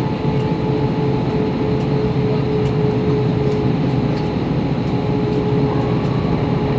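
Steady cabin noise inside an Airbus A321 in flight: a constant rumble of engines and airflow with a steady hum running through it.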